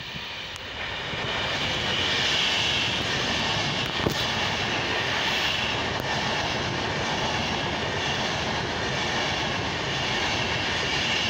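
Electric express passenger train running non-stop through the station at speed: a steady, loud rush and rumble of wheels on rail that builds over the first couple of seconds and then holds, with one brief click about four seconds in.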